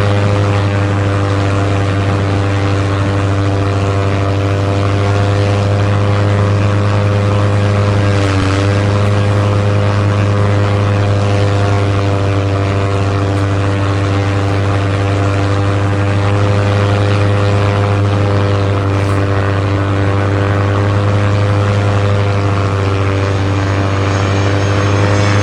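Battery-powered toy aeroplane running with a loud, steady droning hum, its pitch dipping briefly about eight seconds in.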